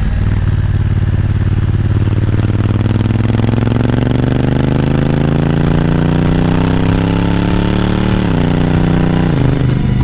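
Honda Africa Twin DCT's parallel-twin engine pulling under acceleration, its pitch rising slowly for several seconds. Near the end the pitch drops sharply twice as the dual-clutch gearbox shifts up.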